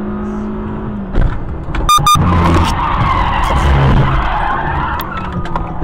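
Road vehicle crash: a car's engine runs steadily, then a sudden jolt about a second in, two short high beeps, and about three seconds of loud skidding and scraping noise that dies away.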